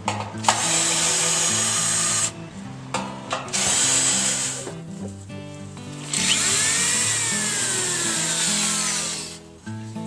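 A power drill runs in three bursts, short, shorter, then a longer one of about three seconds during which its pitch falls, over background music with steady notes.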